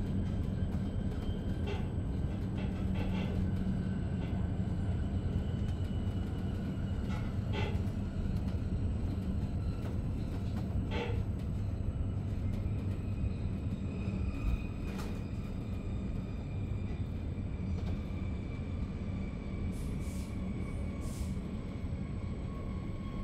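Interior running noise of a Re 450 DPZ double-deck S-Bahn train in motion: a steady rumble of wheels on track with a faint electric whine. The whine falls slowly in pitch during the second half, and there are a few scattered clicks and creaks.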